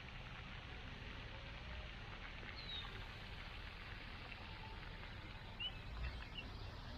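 Faint outdoor ambience: a steady hiss with a few brief, faint bird chirps.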